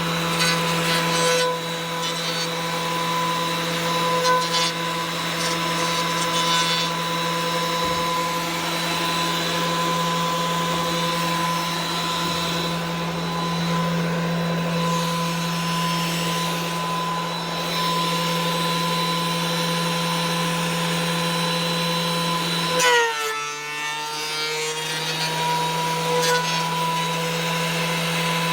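An electric woodworking power tool runs steadily with a constant motor whine. About 23 seconds in, the pitch dips briefly and then recovers, as the motor bogs under load from a cut.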